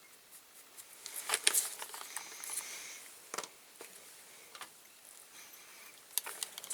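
Light clicks and clatters of small metal parts and tools being handled on a workbench while a diecast toy car is taken apart, with a few sharper knocks about a second in, in the middle and near the end.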